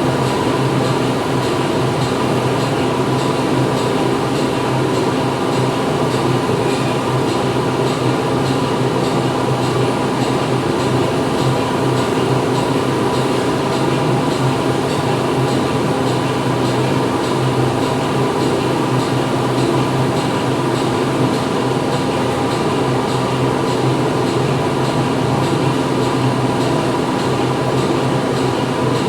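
Steady machinery din inside a factory: a dense, even hum of running machines with several steady tones through it.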